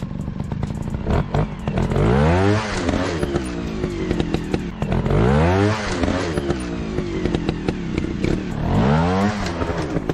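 Motocross bike engine revving up and dropping back three times, with clattering and scraping clicks throughout.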